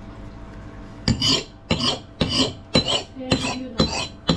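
Rusty axe head being worked in rhythmic back-and-forth strokes starting about a second in, about two strokes a second, each a short metallic scrape with a slight ring.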